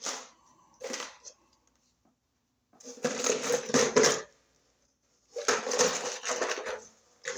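Tools and small hardware being handled and rummaged through, rattling and clattering in two main bursts of about a second and a half each, with a couple of short clinks before them.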